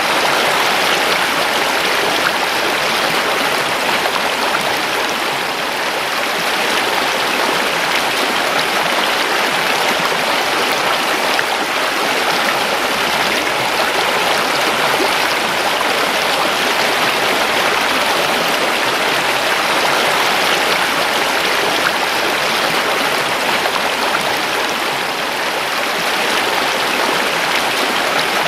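River water flowing steadily over rocks: a continuous, even rushing and babbling.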